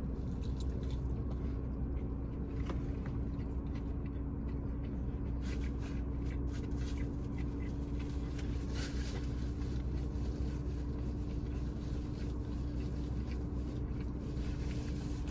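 Close-up chewing of a big bite of burger, with wet mouth clicks and smacks that come thickest in the second half, over a steady low hum.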